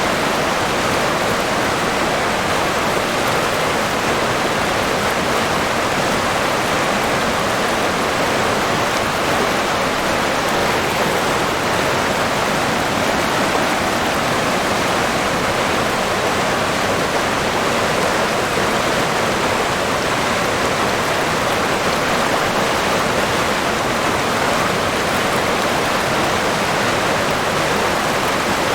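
River water rushing in a steady, unbroken stream, loudest in its middle register.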